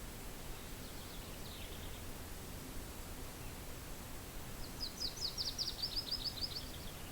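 A small bird gives a faint short call about a second in, then sings a rapid run of about a dozen high notes, falling slightly in pitch, about five seconds in. Under it, a steady low hiss of wind.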